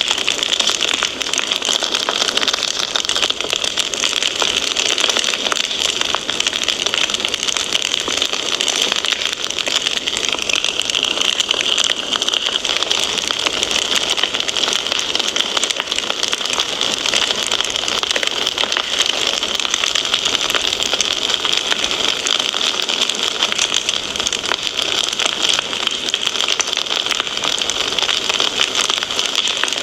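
Wood fire crackling in a fireplace: a steady dense hiss of flame threaded with many small pops and snaps.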